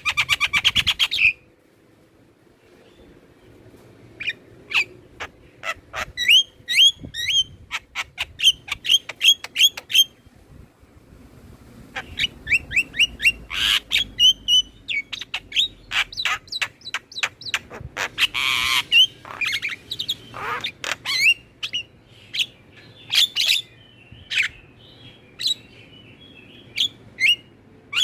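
Javan myna singing: rapid runs of sharp whistled chirps and clicks mixed with a few harsh, grating calls, with a pause of about two seconds just after the start.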